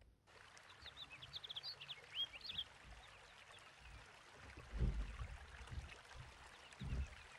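Small birds chirping, a quick cluster of short high chirps in the first few seconds, over a faint steady hiss, with a few low dull thuds later on.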